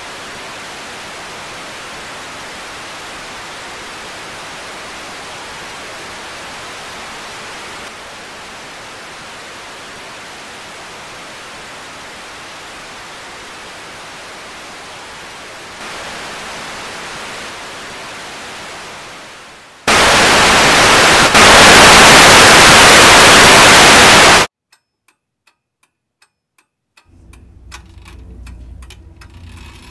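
Television static: a steady white-noise hiss that fades away, then a much louder burst of static for about four seconds that cuts off suddenly. Faint rubbing and small clicks follow near the end.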